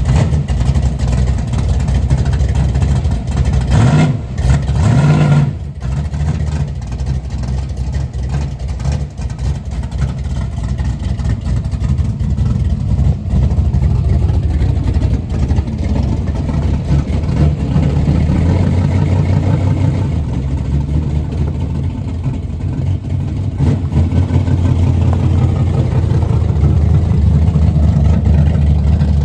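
Old carbureted car engine running steadily, with a short rev about four seconds in.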